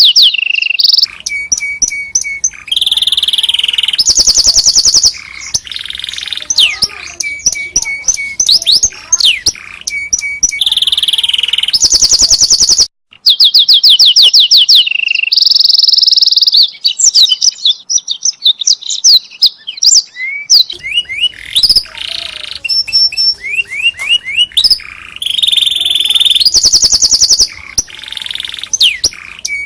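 Domestic canary singing a long, loud song of rapid trills, repeated notes and fast whistled sweeps, with a few brief pauses.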